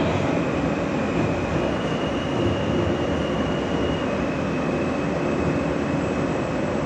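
R160 subway car running between stations, heard from inside the car: a steady rumble and rail noise, with a faint high whine above it that steps up in pitch about one and a half seconds in and drops back about four seconds in.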